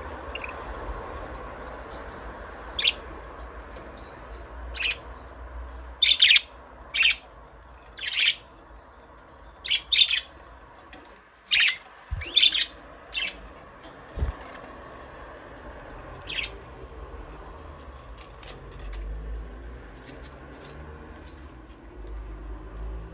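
Budgerigars giving a string of short, sharp chirps, about a dozen of them, bunched together in the middle, over a steady low hum.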